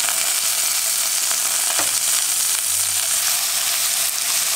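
Sliced onions with freshly added crushed ginger and garlic sizzling steadily in hot sunflower oil in a nonstick pan, stirred with a wooden spatula.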